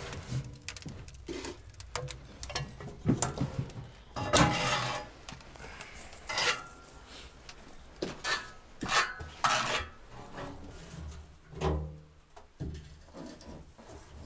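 Hard objects being handled: a run of irregular clinks, knocks and short scrapes, sounding like metal ware or tools clattering.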